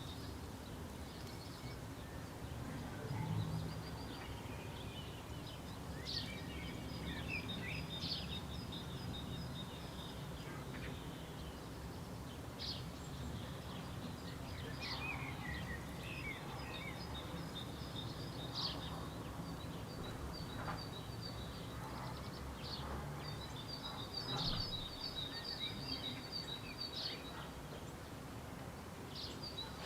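Outdoor birdsong: small birds singing repeated high, thin trilling phrases, with a few short sharp calls or clicks scattered through, over a low steady rumble.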